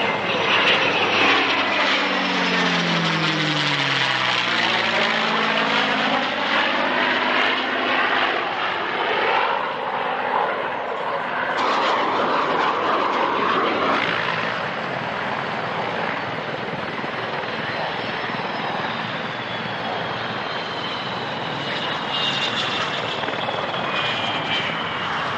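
Aircraft flying low past: the engine note drops in pitch as it goes by in the first few seconds, then a steady engine noise with a thin whine that slowly falls in pitch near the end.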